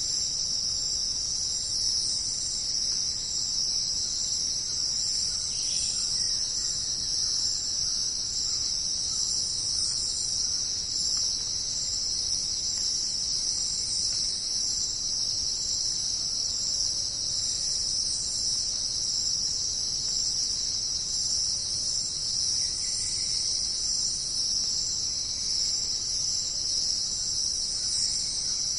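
Dense chorus of jungle insects: a steady, unbroken high-pitched buzzing trill with no thunder heard.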